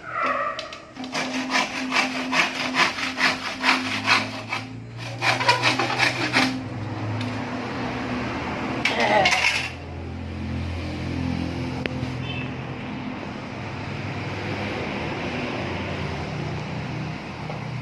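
Fast, repeated rasping strokes of a hand tool scraping on wood or metal, in two loud runs with a short burst later, over a steady low hum.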